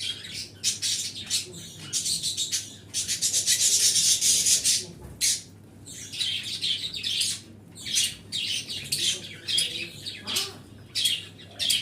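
A group of pet birds chirping and chattering in many overlapping short calls, densest about three to five seconds in.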